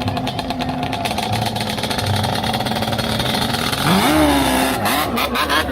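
Vehicle engine running at a steady pitch, then revving up sharply about four seconds in and easing back off as it pulls away.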